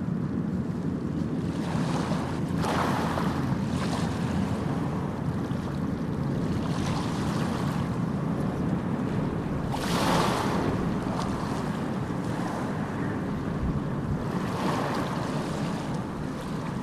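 Small sea waves breaking and washing up on sand over a steady low rumble of surf. A hissing wash comes every few seconds, the strongest about ten seconds in.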